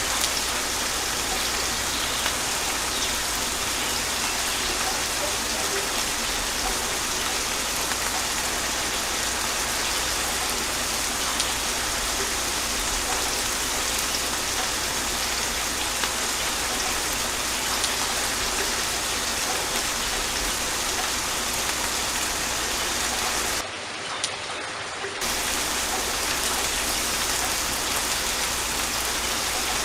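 Steady gentle rain falling, with a few drops landing sharper now and then and no thunder. About three-quarters of the way through it briefly turns quieter and duller for a second or two.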